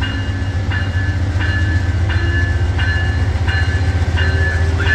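A train rumbling by, with a high ringing tone that repeats about every 0.7 s over the steady low rumble.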